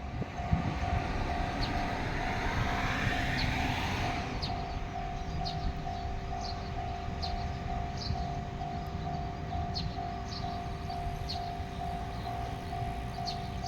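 Shimabara Railway diesel railcar running with a steady low rumble and a rising rush of noise over the first four seconds, while a level-crossing alarm rings in quick, even pulses from the start.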